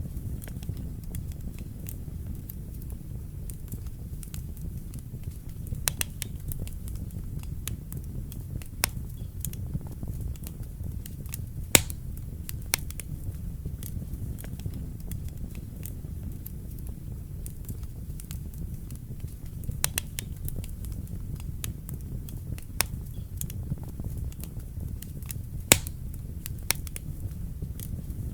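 Wood fire burning in a fireplace: a steady low rumble of flames with irregular sharp crackles and pops, a few louder snaps, the loudest about twelve seconds in and again near the end.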